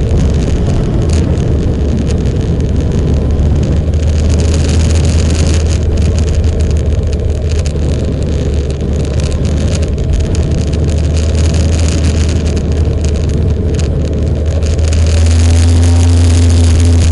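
Motorcycle engine running steadily while riding, with wind and road noise rushing over the microphone; the engine sound grows louder near the end.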